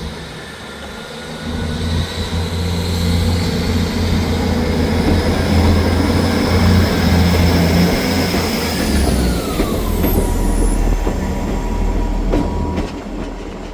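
Class 158 diesel multiple unit's engines working hard as it pulls away from a station. A whine glides down in pitch about nine seconds in and then holds steady.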